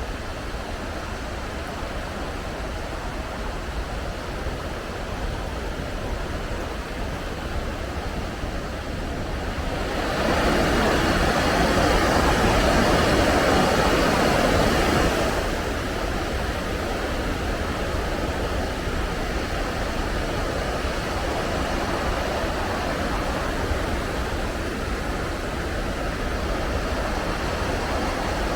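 Waterfall rushing steadily, a continuous roar of falling water; it swells louder for about five seconds around a third of the way through, then eases back.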